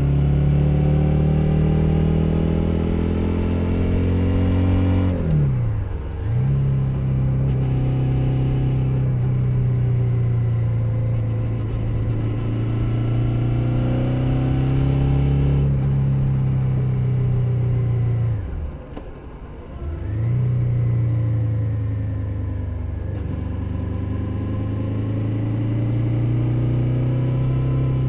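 Suzuki SV 650's 645 cc V-twin engine under way, heard close from under the seat: the revs dip and climb again about six seconds in, then it runs at a steady pull, and around nineteen seconds the throttle is briefly closed, the sound drops, and it picks up again.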